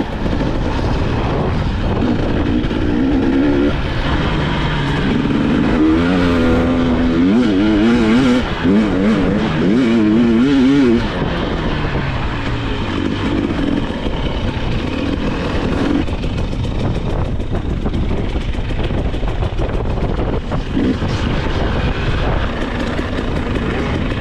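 Two-stroke dirt bike engine, a KTM 300 XC-W TPI, running under riding load and revving up and down. For several seconds in the middle, between about six and eleven seconds in, its pitch swings rapidly up and down.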